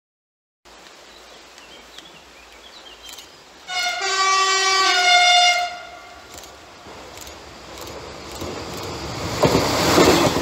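Regional passenger train sounding its multi-tone horn for about two seconds as it approaches. The rumble and rattle of the wheels on the rails then build up to a loud pass-by near the end.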